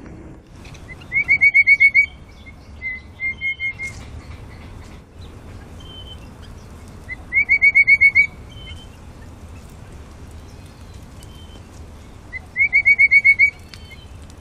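A songbird singing the same phrase three times, about five to six seconds apart: a quick run of about seven short, clear, whistled notes, with softer single notes in between.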